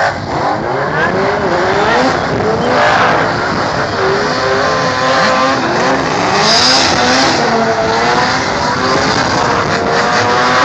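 Drift car's engine revving up and down again and again, its pitch rising and falling, while it does tyre-smoking burnout donuts on the track.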